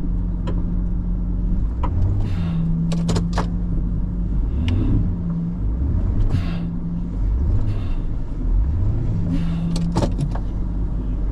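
Plow truck's engine running and revving up and down repeatedly as the truck works back and forth in snow, with a few sharp clicks and knocks along the way.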